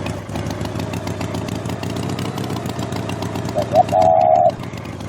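An engine running steadily with a low rumble. A short rising blip comes about three and a half seconds in, then a loud steady hoot lasting just under a second.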